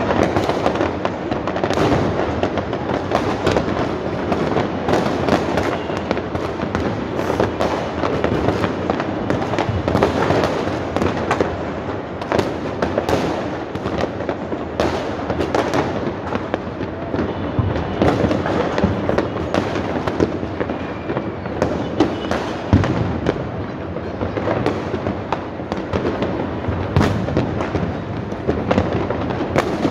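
Fireworks going off all over a city at once: a dense, unbroken din of bangs and crackling from many launches near and far, with no pause.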